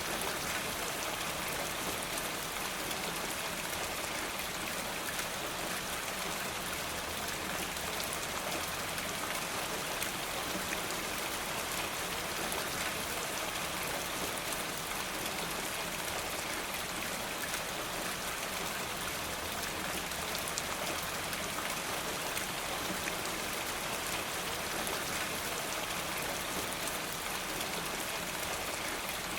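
Steady rain falling, an even hiss dotted with many small scattered ticks.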